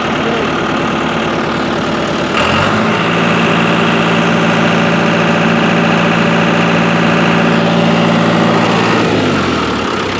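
John Deere tractor's diesel engine idling, then revved up about two seconds in, held at the higher speed for several seconds, and dropping back to idle near the end.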